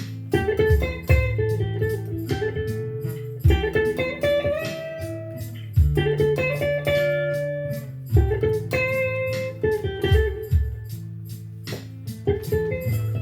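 Guitar playing a blues: phrases of plucked single notes and bends over held low bass notes, with a sharp new attack every second or two.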